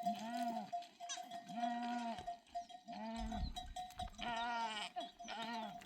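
Sheep and goats of a nomad flock bleating one after another, about five calls, one with a wavering tremble, over a steady ringing tone. A low rumble comes in about halfway.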